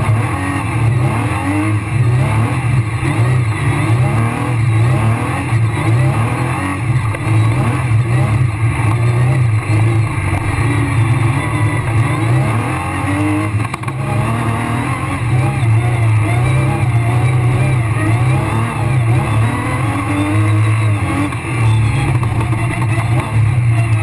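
Rally car engine heard from inside the cockpit, working hard at full stage pace: its pitch climbs and drops again and again as the car accelerates, shifts gear and brakes.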